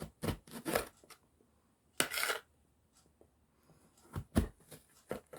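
Kitchen knife cutting eggplant: several short cutting knocks, with a longer scraping cut about two seconds in.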